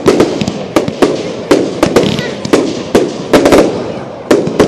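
Fireworks going off in quick succession: irregular sharp bangs and cracks, several a second, some with a ringing, echoing tail.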